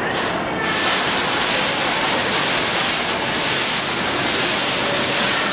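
Steady rush of falling water, like a waterfall, as an even hiss across the whole range that fills in fully about half a second in.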